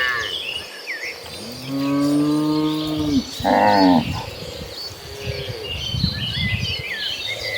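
Cattle mooing: a long low moo about two seconds in, a shorter louder one right after it, and a fainter one near the middle, with faint high chirps throughout.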